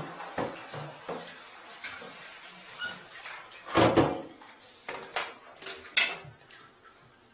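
Irregular knocks and clatters of hard objects, the loudest a quick cluster about four seconds in and a sharp one about six seconds in.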